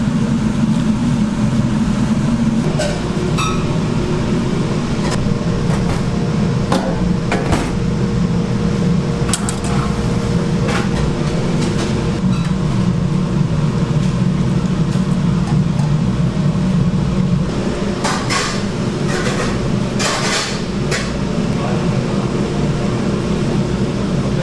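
Kitchen working noise: a steady low hum of running equipment, with scattered sharp knocks and clatter, several in quick succession near the end.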